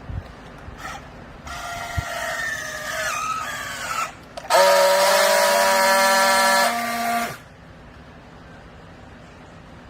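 Baler machinery whining: a pitched whine that shifts and slides in pitch for a few seconds, then a louder steady whine for about three seconds that cuts off suddenly.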